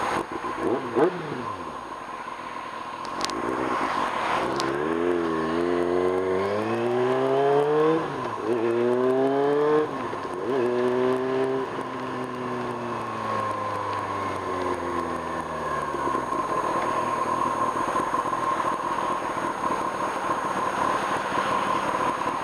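Kawasaki Ninja ZX-6R's inline-four engine pulling up through the gears, its pitch rising, with a shift about eight seconds in and another about ten seconds in. The revs then hold and fall away over the next few seconds, leaving a steady rushing wind and road noise.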